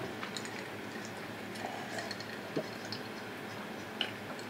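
A person eating: quiet, wet chewing and mouth sounds with a few faint, irregular clicks.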